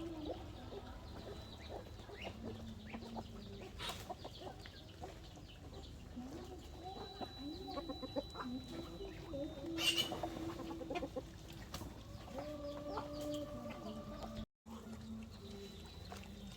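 Chickens clucking, several birds calling over one another in short pitched clucks, with a sharp knock about four seconds in and another about ten seconds in. The sound drops out briefly near the end.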